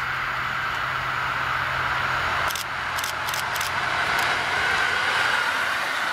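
EN57 electric multiple unit approaching on the track, a steady rushing running sound that swells slightly as it nears. A quick run of sharp clicks comes about two and a half seconds in.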